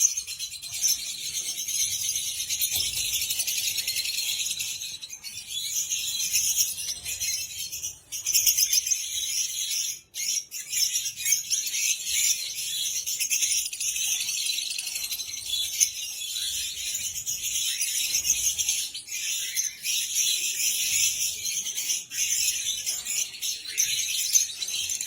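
A colony of caged lovebirds chirping all at once: a dense, continuous, high-pitched chatter that drops out briefly about eight seconds in and again about ten seconds in.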